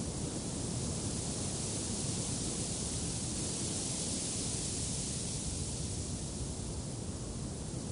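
Steady wind, an even rushing hiss with a low rumble underneath, swelling slightly in the middle of the stretch.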